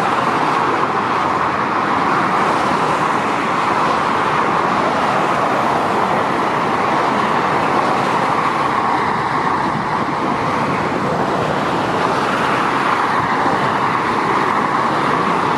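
Steady motorway traffic: a continuous wash of tyre and engine noise from passing trucks and cars, with no single vehicle standing out.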